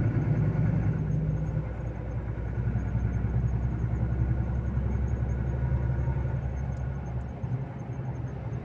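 Volvo FH 460 truck's 13-litre straight-six diesel engine running with a steady low hum.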